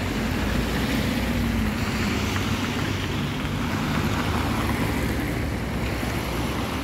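Freight train rolling past with a steady rumble, easing slightly near the end.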